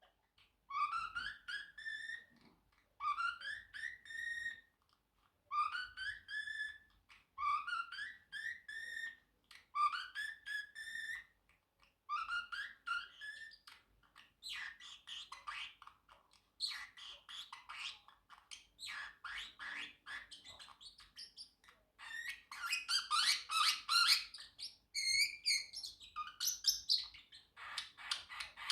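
Pacific parrotlet chirping: short phrases of stuttering chirps that rise in pitch, repeated about every two seconds, then turning into faster, busier chirping that is loudest a little past two-thirds of the way through.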